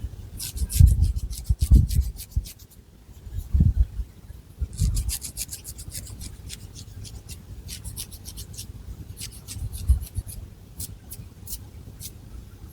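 Long fingernails scratching through thick hair and across the scalp in runs of quick, short strokes, three bursts of them, with a few soft low thuds underneath.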